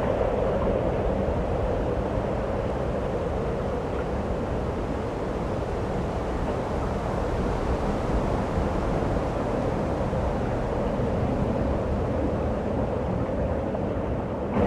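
Snowstorm wind blowing steadily: an even rushing noise with a low rumble underneath.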